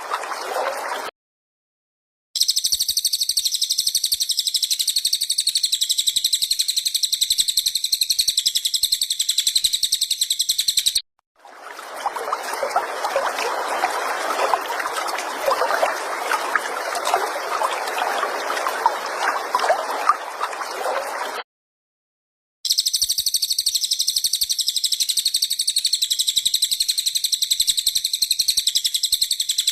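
Songbird singing a rapid, continuous high-pitched trill of chirps, in three edited stretches broken by sudden short gaps of silence. Under the middle stretch runs a lower crackling, trickling noise.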